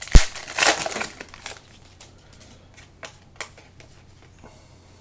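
Foil trading card pack wrappers crinkling and being crumpled, with one sharp snap about a split second in, then a few light ticks as the cards are handled.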